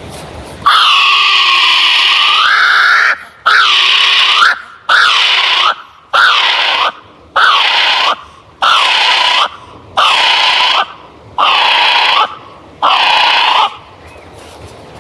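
A series of nine shrill, high-pitched animal calls, evenly spaced: the first about two and a half seconds long, the rest about a second each, each dipping and then rising in pitch at its end. They are sound material for a redesigned Velociraptor voice built from bird calls.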